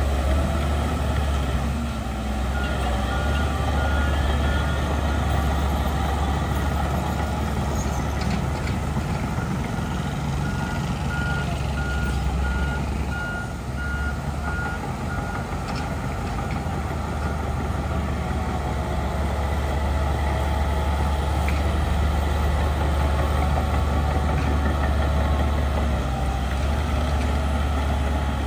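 Heavy diesel earthmoving machinery running steadily with a deep engine hum, while a reversing alarm beeps in two spells, briefly a few seconds in and again for about five seconds mid-way.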